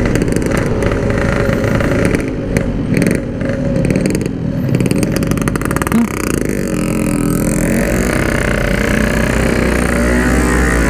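Yamaha RX-King's two-stroke single-cylinder engine running under way, its pitch rising and falling as the throttle and gears change. The rider says the engine runs wet (rich) because its main jet is too large.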